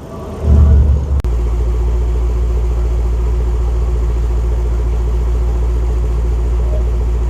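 2018 Range Rover SVR's 5.0-litre supercharged V8 starting up: a loud flare as it catches about half a second in, then it settles abruptly into a steady, low, rumbling idle.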